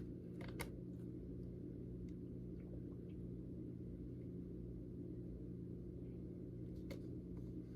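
A steady low hum, with a few faint clicks near the start and again near the end.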